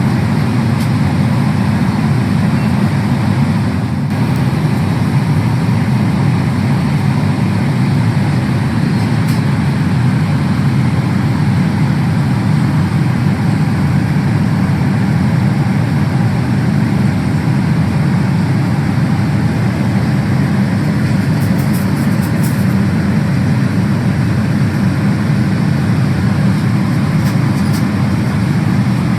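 Steady roar of a Boeing 777-300ER's engines and airflow heard inside the passenger cabin, even and unchanging, with a few faint clicks about two-thirds of the way through.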